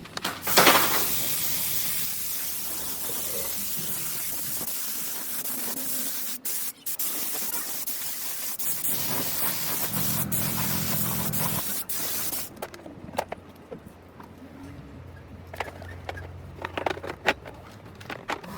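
Steady spraying hiss lasting about twelve seconds, then cutting off abruptly, followed by scattered clicks and knocks.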